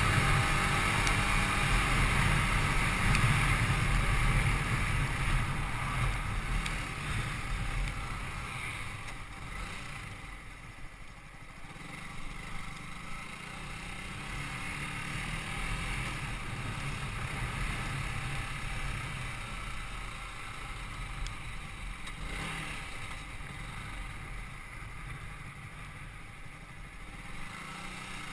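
Yamaha YZF-R125's single-cylinder 125 cc four-stroke engine running on the move, with wind noise over it. It is loudest for the first several seconds, drops away about ten seconds in, then picks up a little again.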